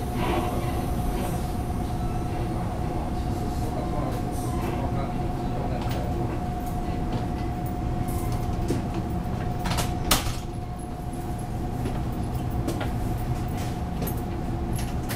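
Inside the car of a Taiwan Railways EMU600 electric commuter train: a steady low running rumble with a thin steady whine from the train's equipment. About ten seconds in, the whine stops and there is a single sharp clunk.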